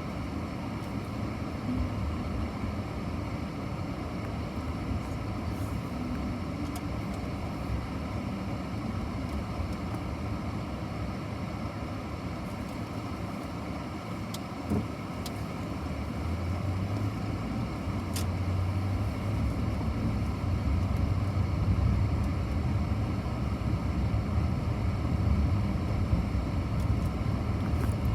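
A steady low rumble with a hiss over it, getting louder in the second half, with a few faint ticks.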